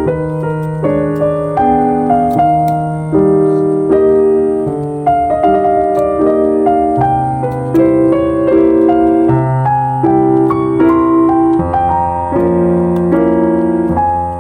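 Background music: gentle piano playing chords, with a new note or chord about every half second.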